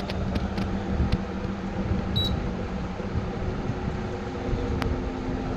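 Window air conditioner's compressor and fan running with a steady hum and a few light clicks. The compressor is running slow, which the technician takes for a weak capacitor that needs a larger one.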